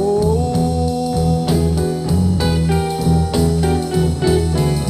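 Blues band playing an instrumental fill between sung verses: a steady bass line under guitar and keyboard chords, with a long held note at the start.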